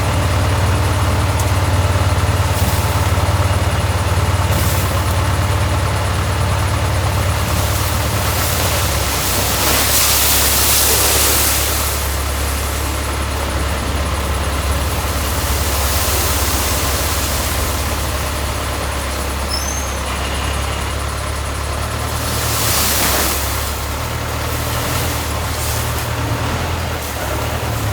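A small engine running steadily with a low hum. A rushing hiss swells over it for a few seconds about ten seconds in, and again briefly later.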